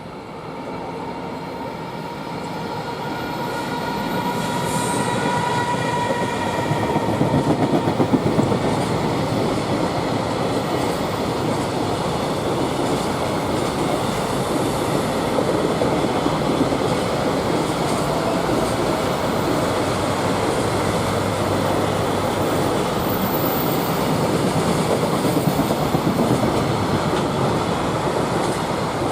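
Freight train passing: an electric locomotive and a long string of container wagons rolling by on the rails. It grows louder over the first several seconds as it approaches, then stays loud and steady.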